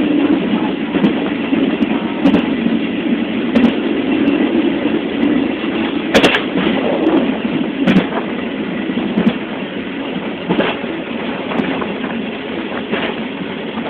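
Train wagon running along the track: a steady rumbling clatter with occasional sharp knocks from the wheels and rails.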